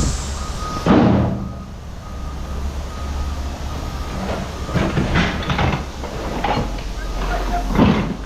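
A vehicle engine idling steadily while a reversing alarm beeps in a repeating pattern for the first few seconds. Metal parts clank and knock over it, loudest about a second in and again near the end.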